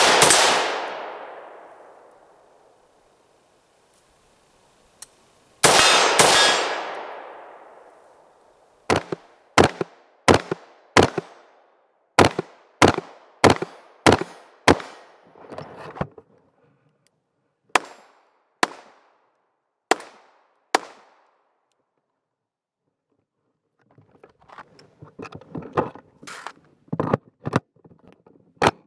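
BCM AR-15 rifle in 5.56/.223 firing at the range. First come two heavy reports about six seconds apart, each with a long echoing tail. Then a string of sharper shots follows at about two a second with short pauses, a patter of small clicks, and one last sharp report near the end.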